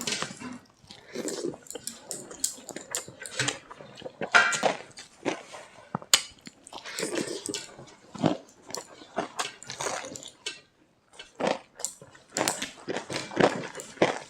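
Close-up eating sounds: chewing, lip-smacking and slurping in irregular bursts, with a few clicks of utensils or dishes.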